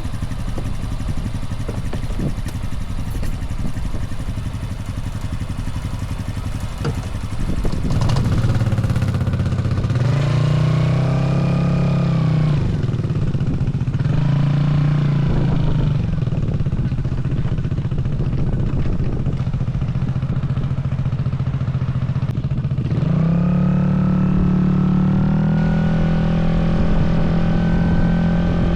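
Aprilia SR GT 200 scooter's single-cylinder engine running through an aftermarket slip-on muffler, pulling away and accelerating several times. Each time the revs climb quickly and then hold at a steady pitch, over a low rumble.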